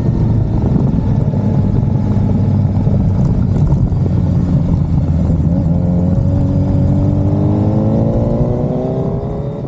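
Suzuki Hayabusa inline-four motorcycle engine running on the road over a steady low rumble, its pitch rising over the last few seconds as it accelerates, then fading out at the very end.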